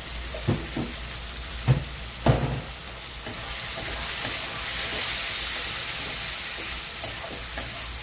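Onion, tomato and spice masala sizzling in hot oil in an aluminium kadhai while a steel spatula stirs and scrapes through it. There are a few sharp knocks of the spatula on the pan in the first couple of seconds, and the sizzle grows louder about halfway through.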